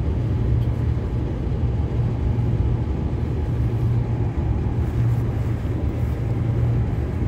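Interior running noise of a Transperth B-series electric multiple unit moving at speed: a steady low rumble with a constant deep hum.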